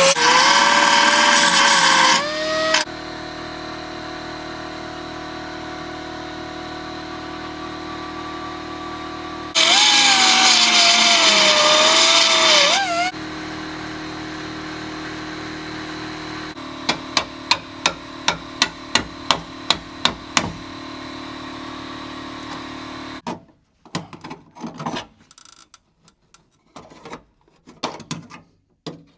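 A belt sander grinds down spot welds in car-body sheet metal. It bites loudly with a wavering whine twice, at the start and again from about ten to thirteen seconds in, and runs more quietly in between. A string of sharp ticks follows, about three a second. The tool stops about 23 seconds in, leaving a few scattered knocks.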